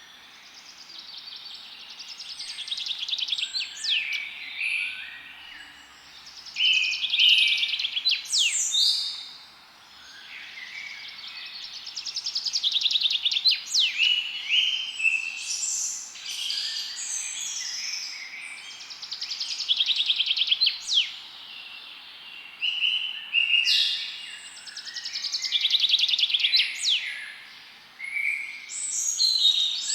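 Several songbirds singing at once: rapid high trills and chirps with quick sweeping whistles, swelling and fading in waves over a faint steady hiss.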